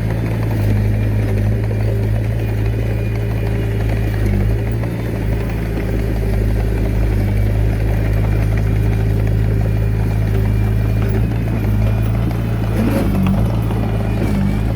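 Diesel engine of a Komatsu D21A mini bulldozer running steadily at an even pitch.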